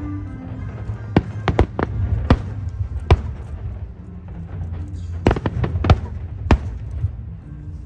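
Aerial fireworks shells bursting: a string of sharp bangs, several in quick succession between one and three seconds in and another cluster around five to six seconds in, over a steady low rumble.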